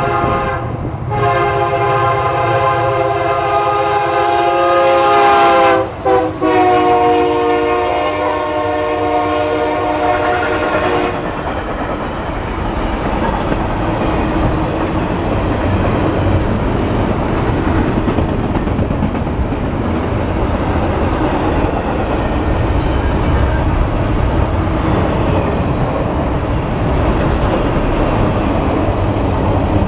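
Norfolk Southern diesel locomotive's multi-chime air horn sounding in long blasts, with short breaks about one and six seconds in, stopping about eleven seconds in. After that, the steady noise of the double-stack container well cars rolling past on the rails.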